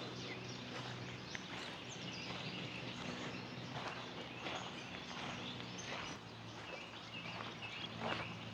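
Faint outdoor ambience: a low, steady background with scattered short bird chirps.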